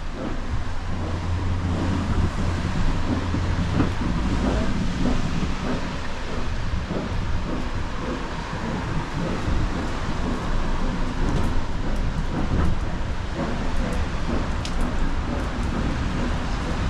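Steam-hauled passenger train running along the line: a steady low rumble of the carriage on the track, with scattered sharp clicks and knocks in the second half.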